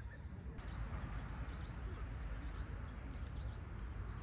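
Outdoor garden ambience: faint scattered bird chirps over a steady hiss and low rumble, the hiss growing a little louder about half a second in.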